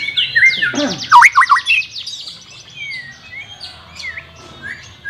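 White-rumped shama singing: a fast run of repeated notes, then a few loud sweeping whistles about a second in, followed by softer scattered chirps.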